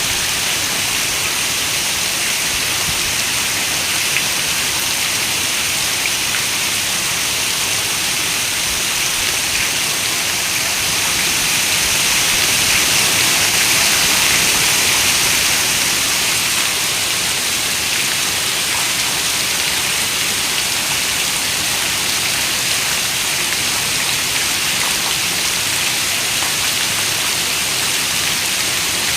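Heavy rain falling steadily: a dense, even hiss of drops with faint scattered ticks. It swells a little about halfway through, then eases back.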